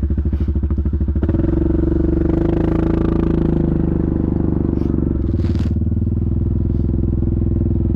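Yamaha Grizzly ATV's single-cylinder engine putting along at low revs, then picking up about a second in and running steadily at higher revs, easing back a little about five seconds in.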